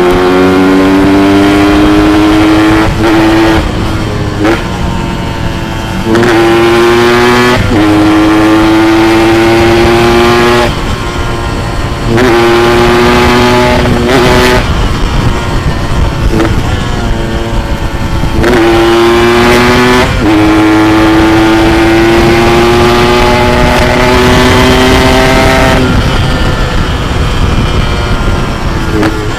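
Yamaha RX-King two-stroke single-cylinder motorcycle engine, ridden hard and revving up through the gears: the pitch climbs steadily, then drops back sharply at each shift, over and over.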